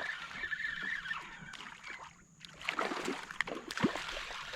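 A hooked ladyfish is being played beside a kayak: water splashes and sloshes, with scattered short clicks and knocks. There is a brief lull about two seconds in.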